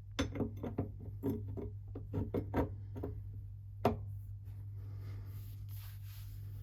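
Irregular clicks and knocks of tools being handled in a workshop over a steady low hum, followed from about four and a half seconds in by a steady scratchy rubbing noise.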